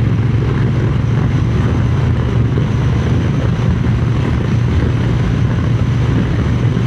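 Triumph Speed Twin 900's parallel-twin engine running steadily at cruising speed, mixed with wind noise on the microphone.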